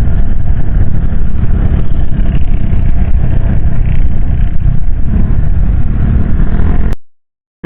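Wind and motorcycle riding noise on a helmet-mounted external microphone: a loud, steady low rumble of wind buffeting mixed with engine and road noise. It cuts out to silence for about half a second near the end.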